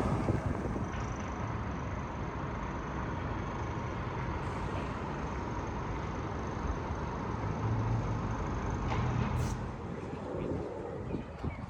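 Road traffic noise, a passing vehicle fading away at the start, then a steady hum of traffic, with a brief click near the end.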